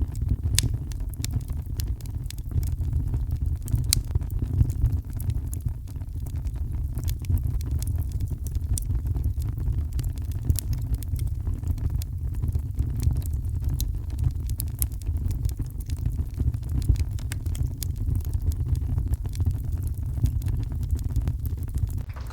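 Heavy rain and a wood fire: a deep, steady rumble with scattered sharp crackles of burning wood.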